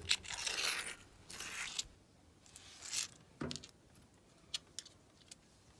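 Handling noises: several short rustling or scraping bursts, a sharper knock about three and a half seconds in, then a few scattered small clicks.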